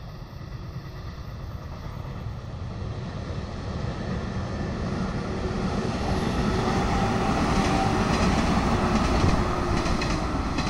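Yellow electric passenger train running along the line, growing steadily louder as it approaches and passes. In the second half there is a rhythmic clickety-clack of wheels over rail joints, and the sound eases off slightly near the end as the train moves away.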